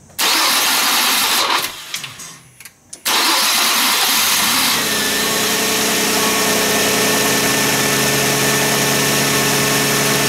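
Nissan Maxima 3.0 V6 cranked on a weak, failing starter: a first crank stumbles and dies away, a second crank about three seconds in catches, and the engine settles into a steady idle about five seconds in. The starter is judged weak, not the battery, which is fully charged.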